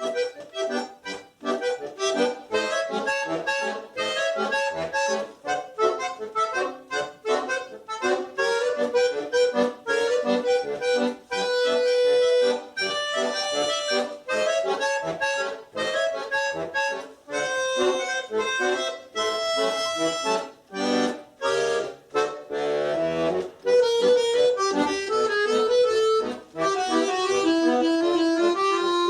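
Solo accordion playing a lively piece, with many short, detached notes and chords over a bass line.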